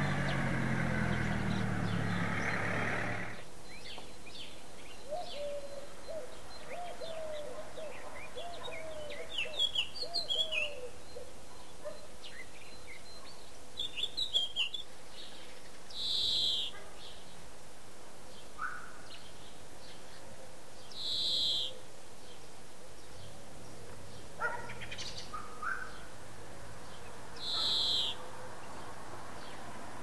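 Small garden birds calling: bursts of twittering chirps, then a short high call repeated three times about five seconds apart, with a few scattered notes. A low rumble of passing traffic fills the first three seconds and then fades.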